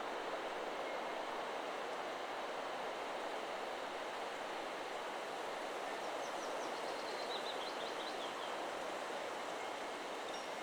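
Steady wind rushing through forest trees. About halfway through, a bird gives a trill of rapid high notes that steps down in pitch over about two seconds.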